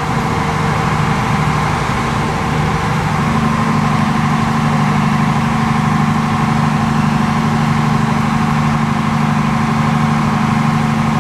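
Fire service vehicle engine running steadily with a low drone; its note firms up and shifts slightly about three seconds in, then holds.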